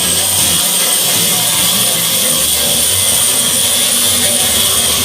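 An electric power tool running steadily, giving a loud, even noise with a continuous high-pitched whine.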